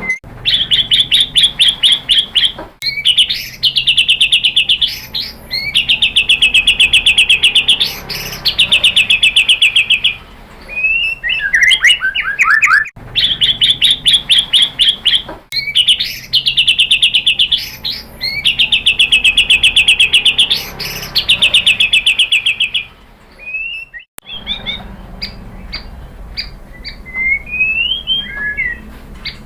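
White-rumped shama (murai batu) singing: long, fast trills of evenly repeated notes in phrases of about two seconds each. The song breaks off abruptly twice, and in the last few seconds turns to sparser whistled notes and short rising phrases.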